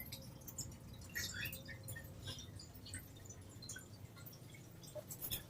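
Cockatiel pottering about: faint, scattered light clicks and ticks with a few short, soft high chirps.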